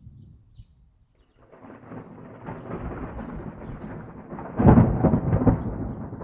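Thunder rolling. A low rumble swells up about a second and a half in and peaks loudest about two-thirds of the way through, then rumbles on.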